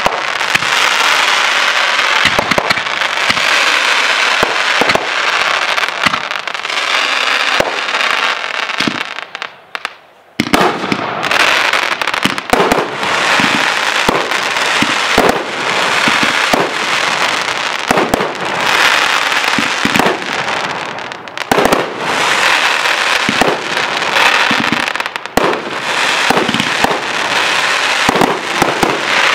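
Aerial fireworks going off: a dense, continuous crackle with many sharp bangs of bursting shells. It almost stops for a moment about ten seconds in, then starts again just as loudly.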